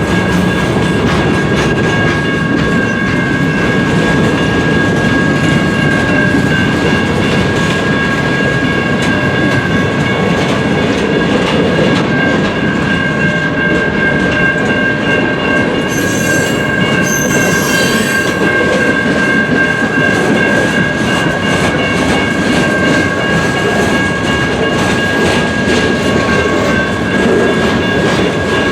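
Loud, steady passing of a CN freight train's cars: steel wheels rumbling and clacking over the rail joints, with a continuous high-pitched ringing squeal over the rumble.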